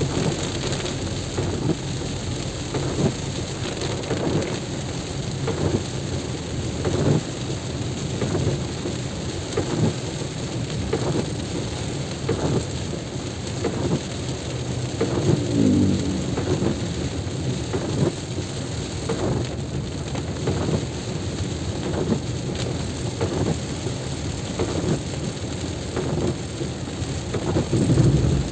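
Heavy rain with drops striking close to the microphone in a dense, irregular patter over a continuous low rumble, swelling louder about halfway through and again near the end.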